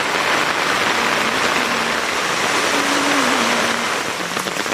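Heavy rain pouring steadily onto a paved road, a dense even hiss, with a faint low hum that shifts in pitch underneath.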